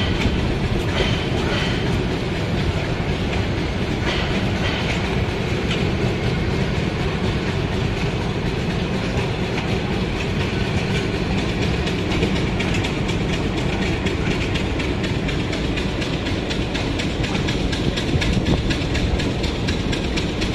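Passenger coaches of a departing train rolling past at low speed, the wheels clattering over the rail joints in a steady rumble.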